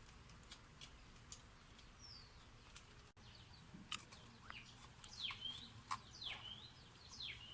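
Faint bird chirps: a few quick falling calls, most of them in the second half, over scattered light clicks.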